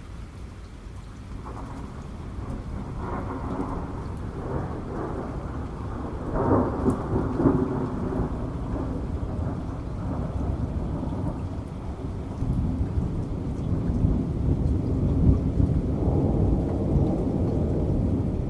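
Thunder rolling over steady rain: a low rumble that swells in, cracks loudest about a third of the way through, then builds into a second long roll near the end.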